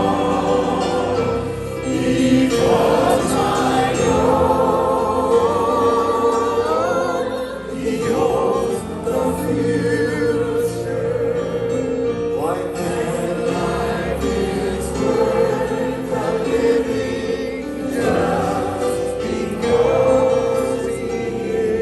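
A choir singing a slow sacred song, with sustained, wavering held notes.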